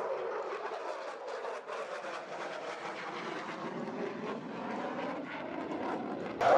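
Aircraft engine noise: a steady drone that swells slightly, then cuts suddenly to a louder sound just before the end.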